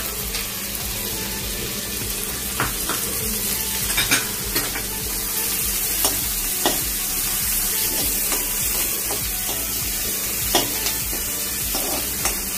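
Chopped onion sizzling as it fries in hot oil and butter in a kadhai. A steel spoon clicks and scrapes against the pan every second or two as it is stirred.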